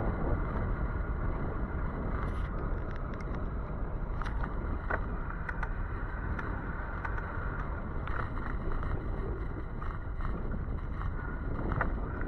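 Steady rushing road and wind noise from riding an e-bike on wet pavement in the rain, with scattered small ticks.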